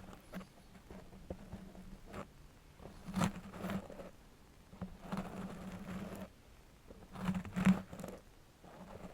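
Long metal nail scratching and tapping on a surface: a few light taps, then three short bursts of scratching, each about a second long, the loudest about seven seconds in.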